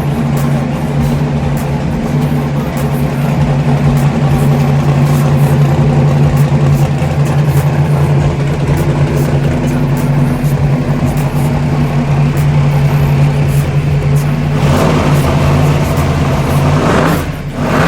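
Twin-turbo 1962 Chevrolet Impala's engine running steadily at a lumpy idle, with a rushing rise in pitch building near the end.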